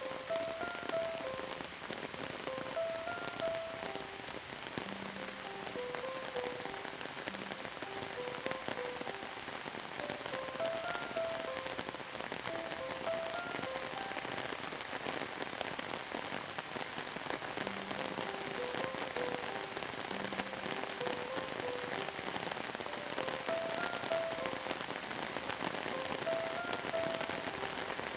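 Steady rain falling, an even hiss of drops, with a soft, slow melody of short notes playing over it.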